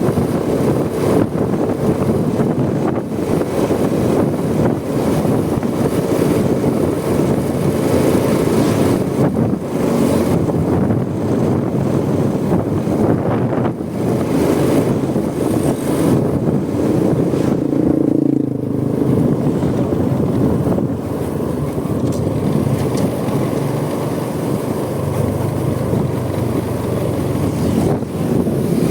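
Honda Supra X 125's single-cylinder four-stroke engine running steadily at riding speed, mixed with wind buffeting the microphone. About two-thirds of the way through the sound dips briefly, then runs a little quieter.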